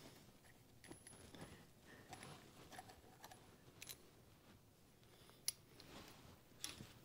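Faint clicks and clinks of small metal parts and tools being handled, with a sharper click about five and a half seconds in and another near the end.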